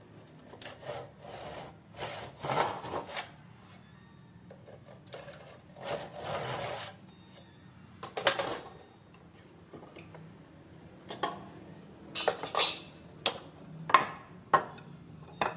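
A hand tool worked on wood in irregular scraping strokes of about half a second to a second each, with pauses between. The strokes are followed by several short, sharp knocks and clicks in the last few seconds.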